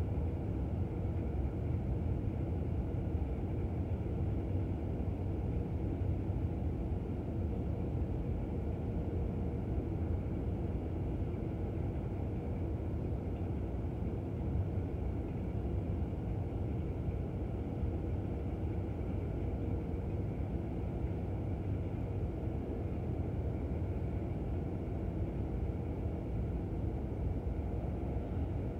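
Freight train cars rolling past on the rails, a steady low rumble with a faint, even whine above it that does not change.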